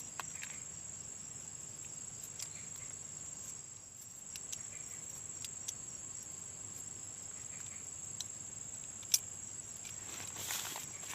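Insects trilling steadily in one high, unbroken pitch, with scattered light ticks and taps, one sharper tap about nine seconds in and a brief rustle near the end.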